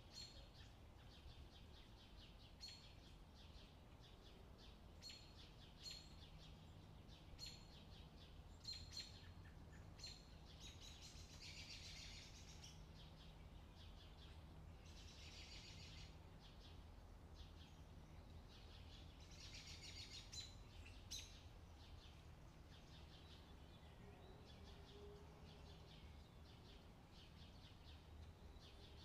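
Faint bird chirping: short high calls every second or two, with a few longer bursts of twittering, over a steady low hum.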